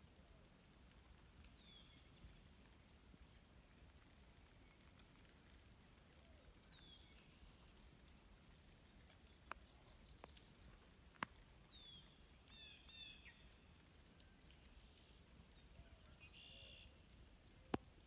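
Near-silent outdoor winter ambience with faint bird calls: short downward chirps every few seconds and brief twittering in the second half. A few sharp ticks are scattered through the second half.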